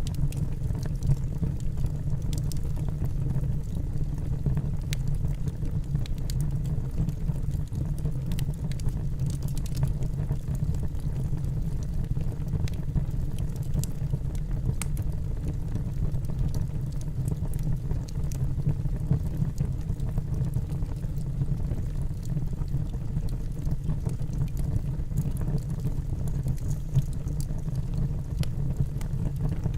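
Wood fire burning in a fireplace: a steady low roar of the flames with scattered sharp crackles and pops from the burning logs.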